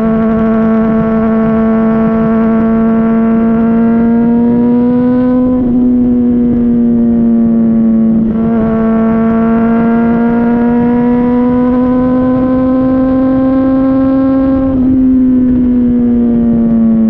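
Honda CBR600RR inline-four running through a Yoshimura RS-5 exhaust, heard right at the muffler while riding. The exhaust note climbs slowly under steady throttle, drops back about five seconds in as the bike shifts, climbs again, then falls off near the end.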